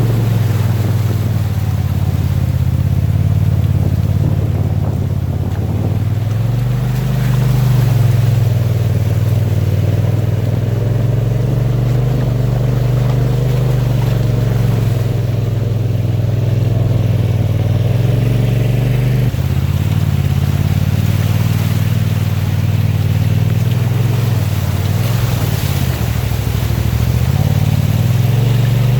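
2018 Polaris RZR XP Turbo S side-by-side's turbocharged twin-cylinder engine running under throttle while driving. The engine note holds mostly steady and eases off briefly about six seconds in, again about two-thirds through, and near the end.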